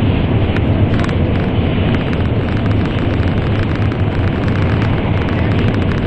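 N700 series Shinkansen running at speed through a tunnel, heard inside the passenger car: a steady, heavy rumble with faint scattered ticking.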